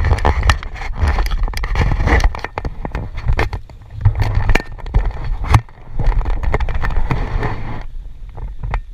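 Footsteps and handling knocks from a body-worn action camera while walking down a river, over a constant low rumble, with many irregular clicks and scrapes.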